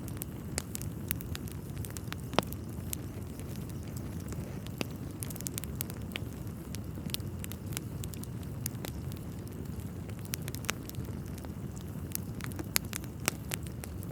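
Wood fire burning in a fireplace: a steady low rumble with scattered sharp crackles and pops from the burning logs, the loudest pop about two and a half seconds in.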